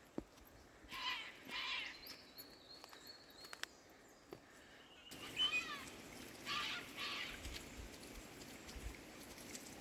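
Two pairs of short, wavering animal calls, the first pair about a second in and the second after an abrupt change in the background hiss midway, with a few faint ticks between them.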